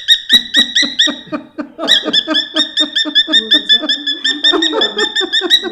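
Pet parrot chattering in a fast run of short, pulsing squawky notes, about eight a second. It breaks off briefly a little over a second in, then resumes, with lower wavering sounds joining near the end.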